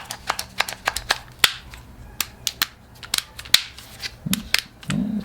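A string of sharp, irregular plastic clicks: a new Kobalt 24-volt brushless impact driver being handled, its forward/reverse selector switch flicked back and forth.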